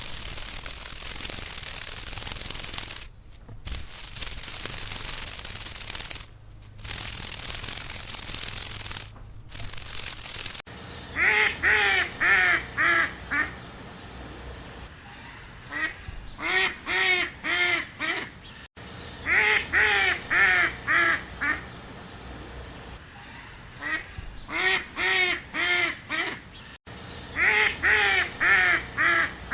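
A long hissing noise in three stretches, then a duck quacking in runs of five or six quick quacks, repeated about every four seconds.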